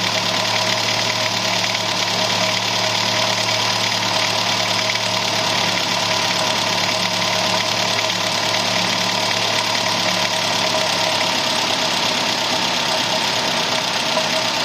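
Car engine idling steadily with a fast, even clicking from the engine. The owner has not found its cause and asks whether it is the water pump bearing, the valve lifters or the timing chain.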